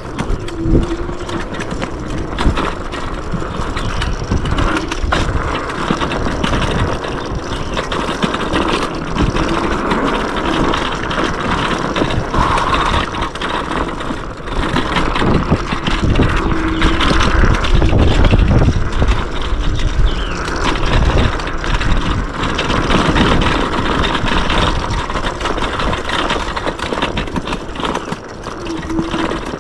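Yume X11 electric scooter ridden fast down a dirt trail: a steady rush of wind and tyre noise, with knocks and rattles as it runs over bumps. A brief, short tone sounds a few times.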